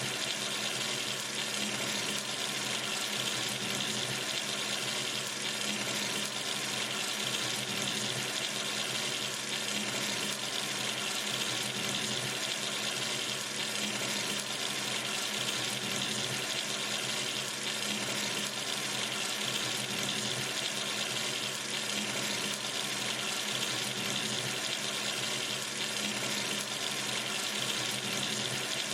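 Water running steadily from a sink tap into the basin, an even, unbroken hiss.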